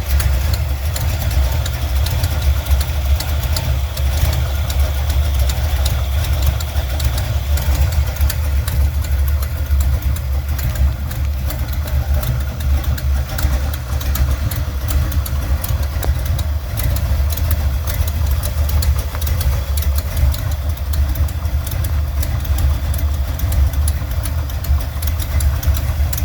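Buick 455 Stage-1 V8 idling steadily with a fast, light ticking over the engine note. The tick started after the timing cover gaskets were changed and went away when the distributor was turned; re-tightening the exhaust header gaskets is the fix being tried.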